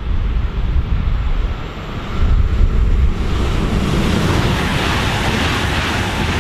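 Wind buffeting the microphone with a low rumble. About three seconds in, the rushing noise of an ICE 3 high-speed train passing at speed builds up and holds.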